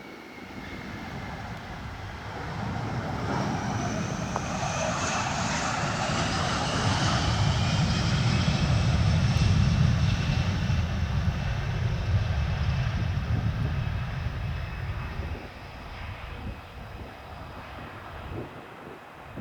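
Boeing KC-135R Stratotanker's four CFM F108 turbofan jet engines passing by. The deep jet rumble builds to a peak about halfway through and fades away, while a high engine whine slowly falls in pitch.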